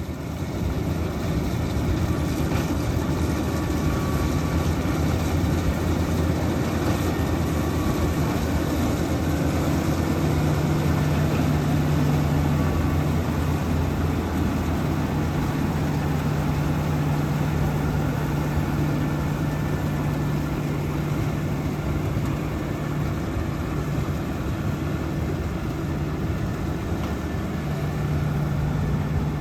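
A GAM 102 HP combine harvester's diesel engine running steadily while it harvests paddy. A continuous low drone, with a deeper hum that grows stronger about ten seconds in.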